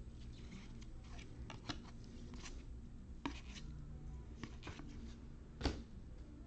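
Football trading cards being handled and flipped through: soft slides and light clicks of card against card, with one sharper tap near the end.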